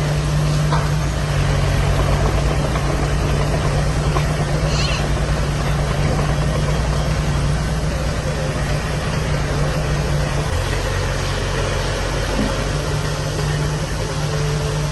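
Diesel engine of heavy earthmoving machinery running steadily at a low, even pitch, its note shifting about ten and a half seconds in.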